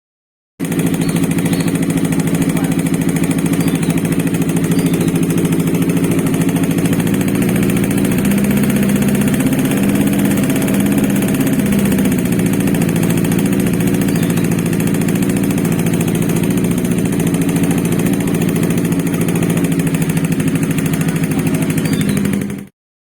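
Kawasaki Ninja 250 motorcycle's parallel-twin engine idling steadily, with a slight change in its note about eight seconds in. The sound cuts in and out abruptly.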